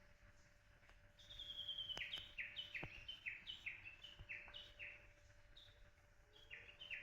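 A songbird singing a repeated two-note phrase, a higher note then a lower one, about three times a second; it starts about a second in, stops for a moment near the end, then starts again.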